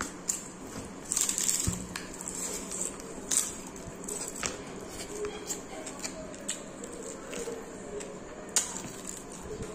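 Close-up eating sounds: wet chewing and lip smacking as a man bites and chews a masala-coated chicken leg held in his hand, with irregular sharp smacks every second or so.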